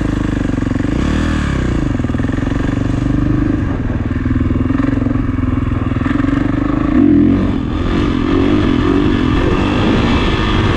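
Kawasaki KX450 dirt bike's single-cylinder four-stroke engine running under throttle, its pitch rising and falling about a second in, then a louder burst of revs with a wavering pitch about seven seconds in.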